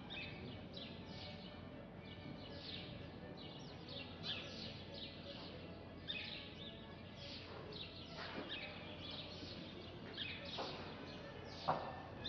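Small birds chirping rapidly and continuously, many short falling chirps a second, over a low steady hum, with one sharp knock near the end.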